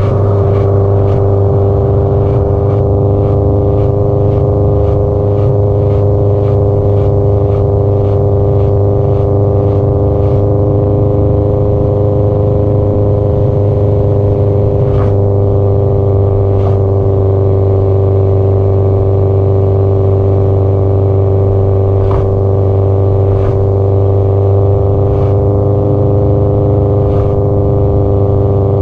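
Subaru Impreza WRX STI (GDB-E) turbocharged flat-four exhaust through an aftermarket muffler, running loud and steady at an even cruising speed with hardly any change in pitch. Sharp ticks come regularly through the first ten seconds or so, then only a few scattered ones.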